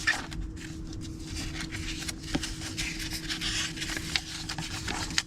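Paper planner pages rubbing and rustling as they are handled, with a few light ticks, over a faint steady hum.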